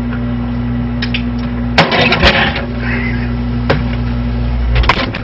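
Steady low electrical hum of a running refrigerator, with a few sudden knocks and bumps about two seconds in, near the middle and near the end.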